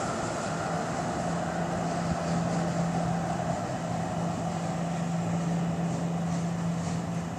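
Nippon Sharyo light rail car running with a steady low hum over a wash of mechanical noise, easing slightly near the end.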